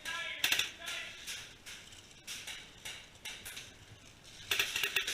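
Voices calling out in the first second and again near the end, with a few short sharp clicks in between.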